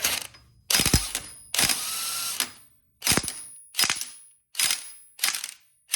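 Impact wrench hammering on a bolt in the motorcycle's front sprocket area, in repeated trigger bursts: a few longer runs in the first two seconds, the longest almost a second, then about five short bursts under a second apart.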